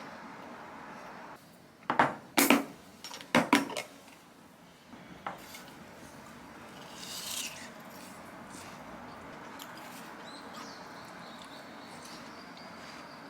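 Kitchenware clattering: a quick cluster of sharp knocks and clinks about two to four seconds in, then a single click and a brief scrape, over a steady background hiss.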